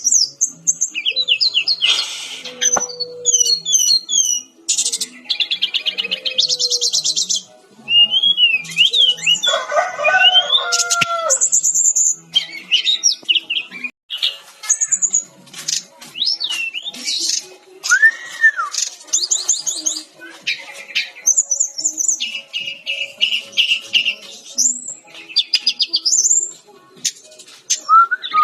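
Sikatan-rimba dada-coklat jungle flycatcher (Cyornis olivaceus) in full, busy song: a quick, varied string of high whistles, fast trills and sliding notes with short gaps between phrases.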